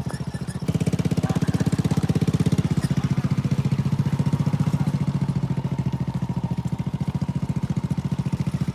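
Small motorcycle engine running steadily with a rapid, even pulse, growing louder about a second in.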